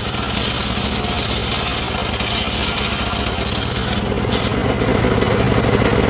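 Small engine of a wood-sawing machine running steadily, with a high hiss over it that stops abruptly about four seconds in while the engine keeps going.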